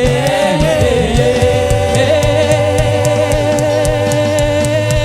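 Church choir holding a long sustained note in harmony, over a band's repeating bass line and steady cymbal ticks.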